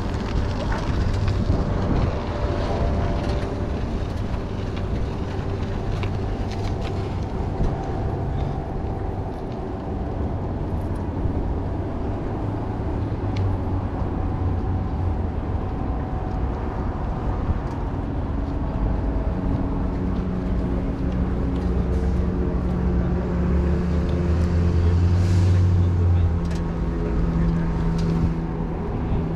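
Road-vehicle engine and road noise running steadily, its pitch shifting now and then, louder for a couple of seconds near the end.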